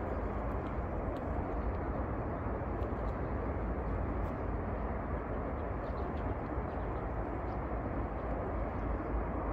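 Steady outdoor rushing noise, even in level, with a deep low rumble and a few faint high ticks.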